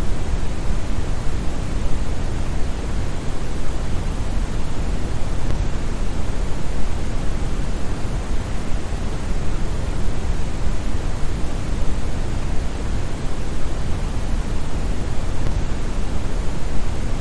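Steady brown noise: a deep, even rushing hiss, heaviest in the bass and thinning toward the treble, with no change.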